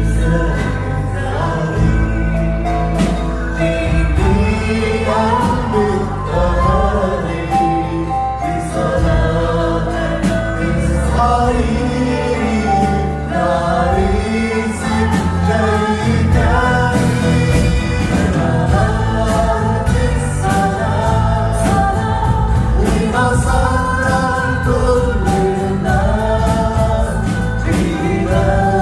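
A group singing a gospel-style worship song together with live instrumental accompaniment and a steady beat.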